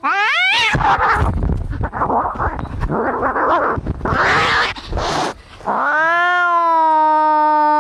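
Cats fighting: a rising yowl, then harsh screeching and spitting for several seconds, then a long, steady, held caterwaul from about six seconds in.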